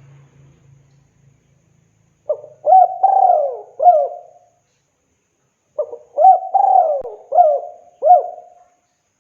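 Spotted dove (tekukur) cooing: two calling phrases of four or five coo notes each, the first starting a little over two seconds in and the second about six seconds in.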